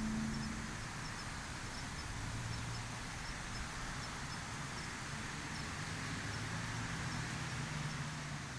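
Outdoor night ambience: a steady hiss with a faint low engine hum coming in about two seconds in, and faint high insect chirps repeating about twice a second.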